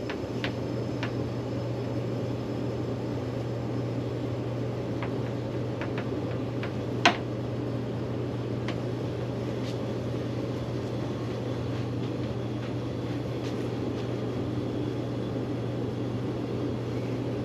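A small machine running with a steady low hum, with a sharp click right at the start and another about seven seconds in.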